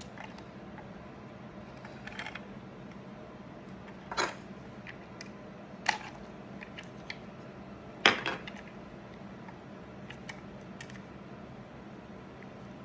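Scattered clicks and knocks of hard 3D-printed plastic parts being handled and worked loose, with three louder knocks about four, six and eight seconds in, over a faint low steady hum.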